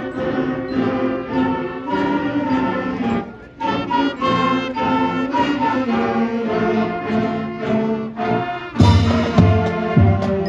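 Middle school marching band playing, with brass holding and moving through chords. The sound drops out briefly about a third of the way in, and near the end the drums come in with a strong, regular beat.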